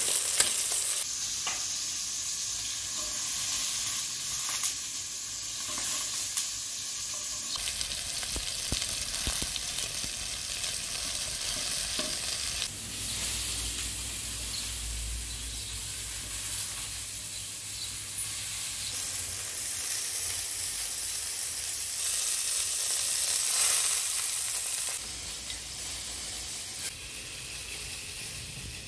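Chicken and button-mushroom skewers sizzling in hot oil in a frying pan: a steady hiss with a few light clicks.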